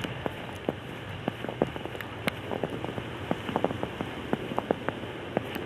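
Falling snow striking the camera body and lens: irregular sharp ticks, several a second, over a steady hiss.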